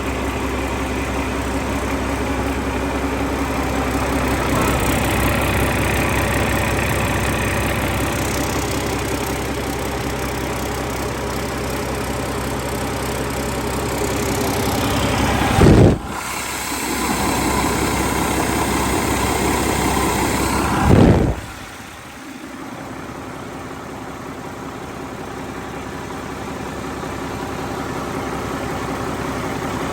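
Mack MP7 10.8-litre six-cylinder diesel engine running on a test run. It idles steadily, is revved up twice about 16 and 21 seconds in, and settles back to a quieter idle.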